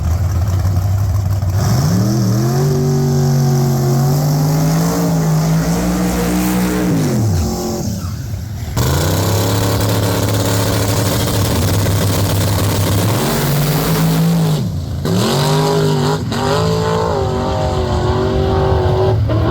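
Twin-turbo S10 drag truck's engine revving and running hard, its pitch climbing and dropping several times. The sound breaks off abruptly a few times.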